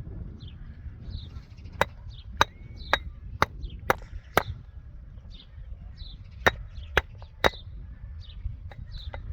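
Repeated sharp blows of a hand tool striking, about two a second: a run of six, a pause, then three more.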